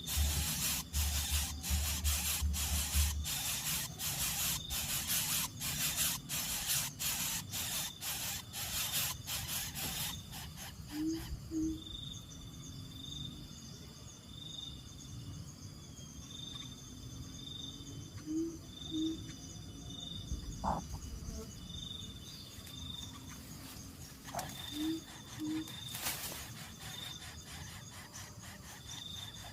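Outdoor ambience of insects chirping. For the first ten seconds there is a fast run of dry clicking pulses, then a steady high pulsing chirp. A bird's low two-note hoot comes three times, about every seven seconds.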